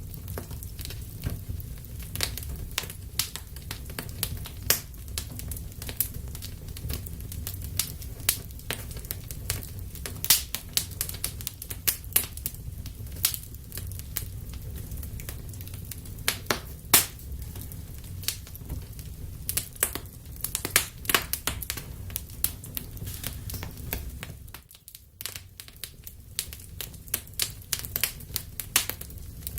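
Wood fire burning in a fireplace: a steady low roar of the flames under irregular sharp crackles and pops from the burning logs.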